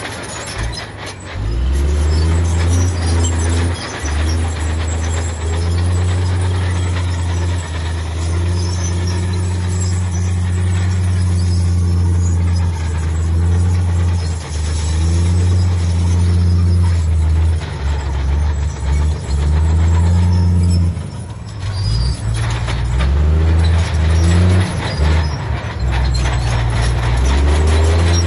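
Heavy diesel engine of earth-moving machinery running under load, a deep drone that shifts in pitch as it revs up and down and briefly drops off about three quarters of the way through.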